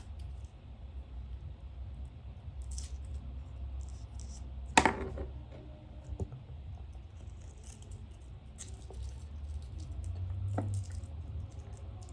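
Small desk-work sounds over a steady low room hum: scattered light clicks and taps of things handled on a desk, with one sharp knock that rings briefly about five seconds in, as of an object set down on the desk.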